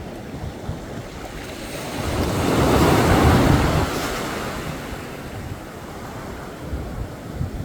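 Waves breaking on a beach: a steady wash of surf with one wave swelling and crashing about two to four seconds in, then washing back, with low rumbling wind on the microphone.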